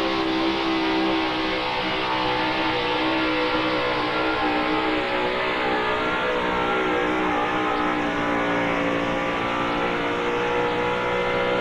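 Gasoline-engined Ford pulling truck running flat out under load on a pull, a loud, steady high-revving engine note whose pitch sags slightly midway as the load builds.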